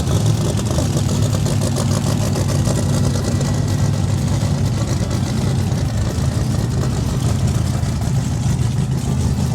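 Drag racing car engine idling steadily during a warm-up fire-up, with a deep, even note.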